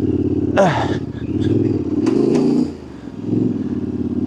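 Yamaha Ténéré 700's parallel-twin engine revving up and down in swells under load on a rough, rocky climb, easing off briefly a little under three seconds in before the throttle comes back on. A short sharp noise stands out about half a second in.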